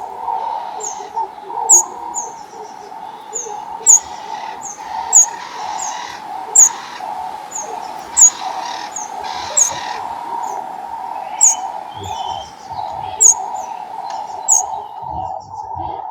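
Garden birds calling: a short, sharp, high chirp that falls in pitch, repeated roughly once a second, over a steady low drone.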